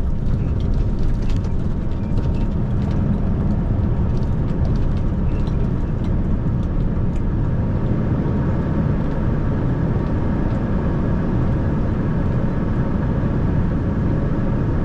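Heavy truck's diesel engine and road noise heard steadily from inside the cab while driving, a dense low drone.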